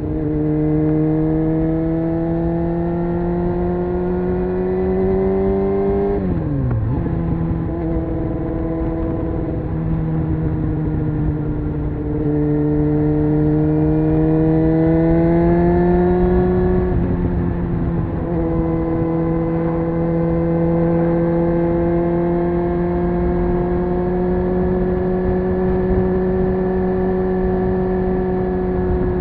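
Honda CBR600F's inline-four engine and exhaust under way. The pitch climbs under acceleration, falls sharply about six seconds in and again around seventeen seconds as gears change, then holds nearly steady at cruise.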